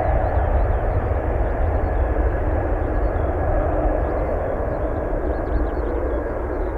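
Four-engine jet noise of a Boeing 747-400F freighter, a deep rumble with a rushing roar on top, slowly fading as the aircraft moves away.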